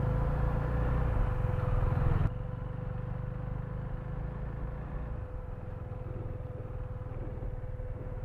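KTM Duke 390's single-cylinder engine running as the bike is ridden, with a steady low rumble. The sound drops abruptly in level about two seconds in and eases further about five seconds in.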